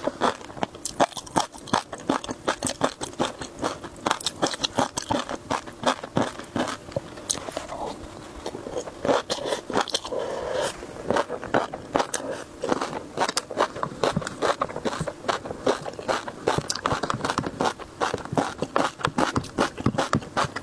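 A person chewing crunchy seafood close to the microphone, with rapid, dense crunches that ease briefly about halfway through.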